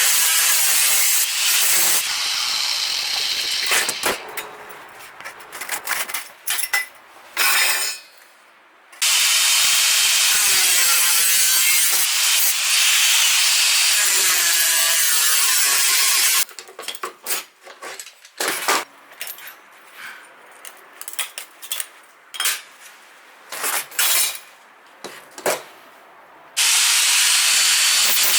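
Stick arc welding: the arc crackling and hissing steadily in three runs of several seconds each, with scattered light clicks and knocks in the quieter pauses between.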